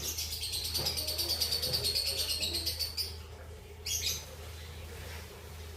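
Lovebirds chattering in a rapid run of high chirps that stops about three seconds in, then one short squawk about a second later. A steady low hum runs underneath.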